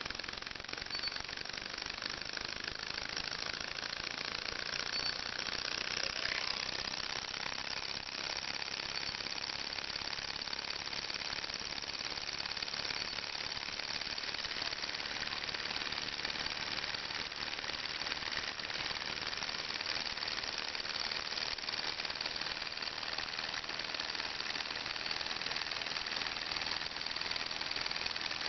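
Small hot-air Stirling engine with a Ross yoke linkage running steadily, its moving parts making a fast, even rattle.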